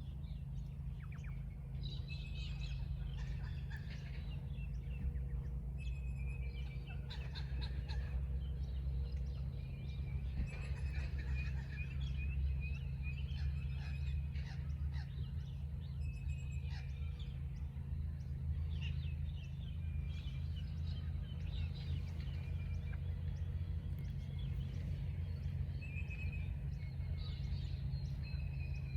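Several birds chirping and calling in short, repeated phrases over a steady low rumble.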